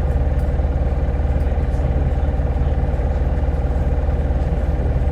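Hino Blue Ribbon hybrid city bus's diesel engine running steadily, heard from inside the passenger cabin, with an even low throb.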